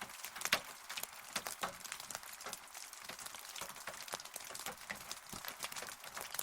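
Rain falling, with many close drops striking a hard surface in sharp, irregular taps over a steady hiss.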